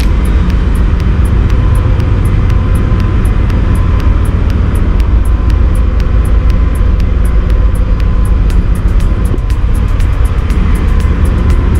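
Ship's engine-room machinery noise, mainly the diesel generator running while the bulk carrier lies at anchor: a loud, steady drone with a light even ticking about four times a second over it.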